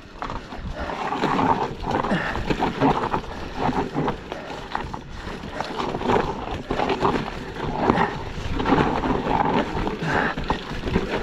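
Yeti SB160 mountain bike descending a steep, rough trail: tyres rolling and skidding over loose, very dry rock and dirt, with irregular clattering and knocks from the bike.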